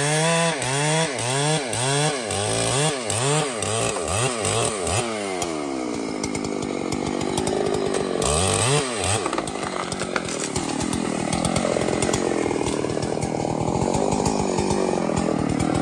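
Two-stroke chainsaw cutting into a large tree: the engine speed swings up and down about twice a second for several seconds, then sinks lower and rougher as the chain bites into the wood under load, with one brief rise in revs midway.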